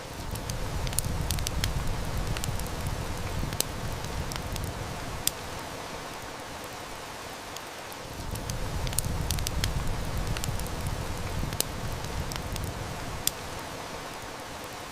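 Steady heavy rain hiss mixed with a wood fire's crackle, with sharp snaps scattered throughout. A low rumble swells up twice underneath, each time for several seconds.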